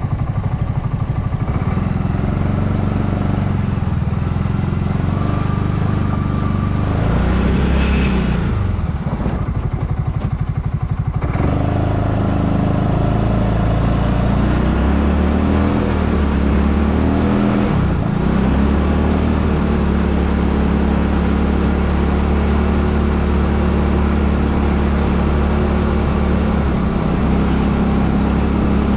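Small vehicle engine working through deep snow, running loudly; its pitch goes up and down between about a quarter and two-thirds of the way in, then it settles to a steady run.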